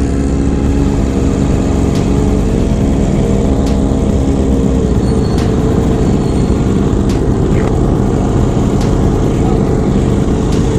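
Motorcycle engine running steadily with a deep rumble, its pitch shifting slightly a couple of seconds in.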